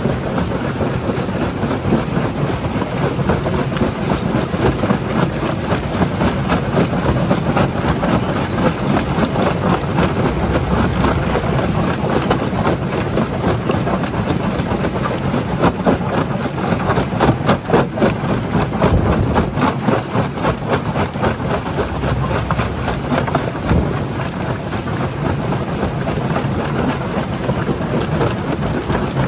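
Jaw crusher crushing rock: a steady, loud machine noise with continual clattering, cracking and knocking of stone. The knocking is thickest through the middle.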